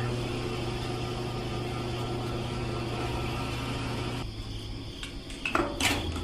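A small electric motor hums steadily, then cuts out about four seconds in, followed by a few light clicks.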